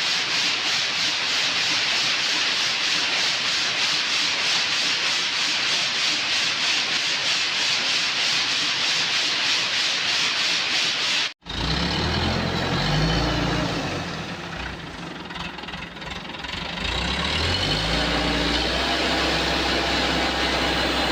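Steady machinery noise in two edited segments: first a loud, even hiss, then, after a sudden cut, a low steady hum that shifts pitch in steps.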